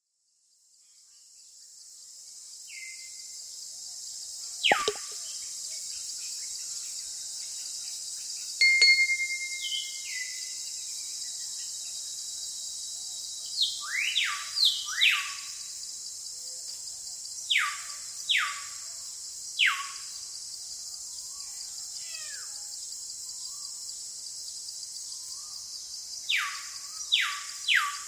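Jungle ambience: a steady high hiss of insects fades in over the first few seconds, and a bird repeatedly gives loud falling whistles, singly and in quick runs of two or three.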